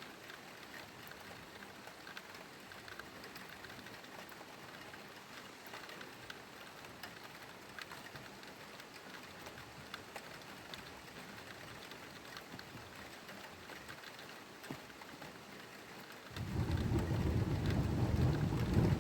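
Steady rain with scattered raindrop ticks; about sixteen seconds in, a loud, low rumble of thunder starts suddenly and keeps going.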